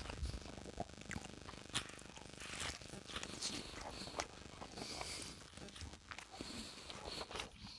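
Faint eating sounds: scattered light clicks and scrapes of cutlery and short chewing scuffs over the dish of chicken, chorizo and roast potatoes.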